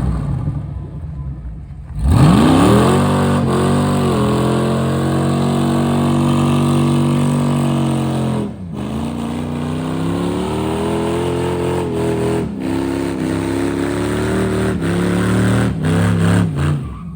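Turbocharged 6-litre V8 in a Chevrolet C10 pickup revving up about two seconds in and held at high rpm for two long pulls. The revs drop briefly about eight and a half seconds in, between the pulls.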